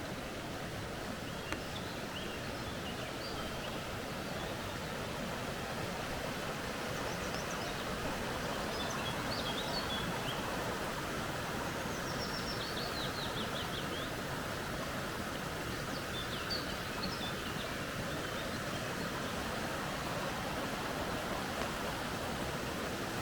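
Steady rushing of a flowing creek, with birds calling over it in short high chirps and, about halfway through, a quick descending run of notes.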